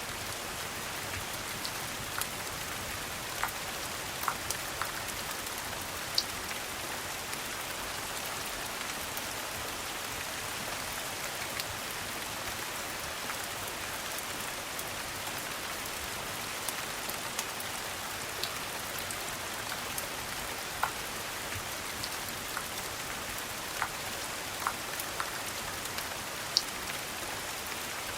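Steady rain falling, an even hiss, with scattered sharp ticks and pops every second or so.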